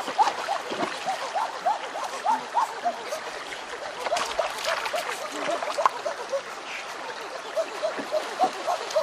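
River water gurgling and splashing: a steady run of short, rising bubbling blips, several a second, with small splashes among them.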